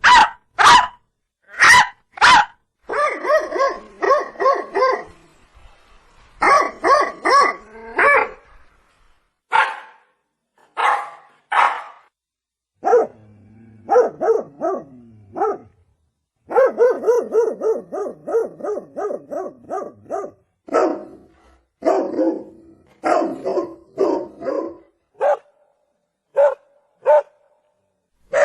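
Domestic dog barks: single barks and fast runs of several short barks a second, separated by brief silent gaps.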